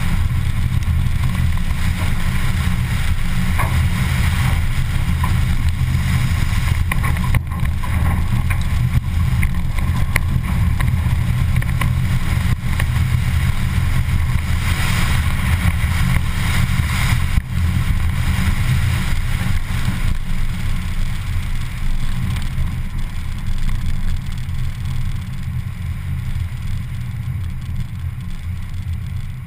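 Car engine running hard as the car drives a coned grass and dirt rallycross course, heard as a heavy, steady low rumble mixed with tyre and wind noise; it grows quieter over the last several seconds.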